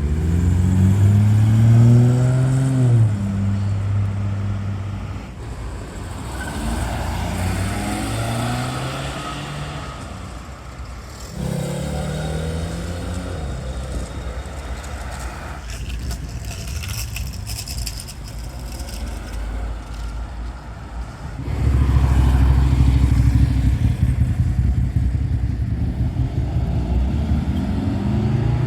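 Cars pulling away one after another, their engines revving and rising in pitch as they accelerate. A louder, deeper engine sound comes in near the end.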